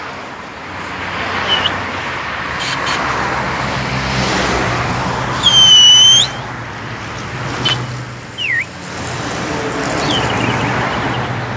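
Street traffic noise with a steady low engine hum. About halfway through, one loud, high whistle lasts under a second, and a short falling chirp follows a couple of seconds later.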